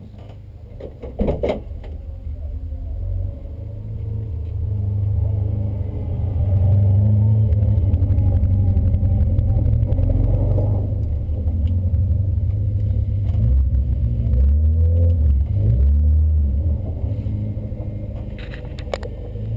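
Honda Civic VTi's B16 four-cylinder engine running hard under load. It grows louder over the first several seconds, stays loud with some rises and falls in pitch, and eases off near the end. There is a short clatter about a second in.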